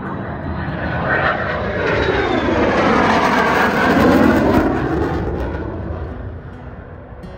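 A fixed-wing aircraft flying past, growing louder to its peak about four seconds in and then fading away.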